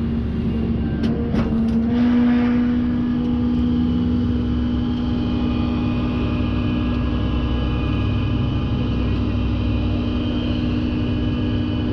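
Tow truck running with a steady hum, with a few sharp clicks about a second in, as the crashed motorcycle is lifted onto it.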